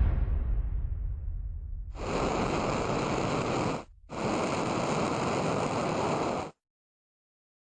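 A deep boom fading away, then a steady rushing rocket-engine roar in two stretches with a short break between them, cut off abruptly.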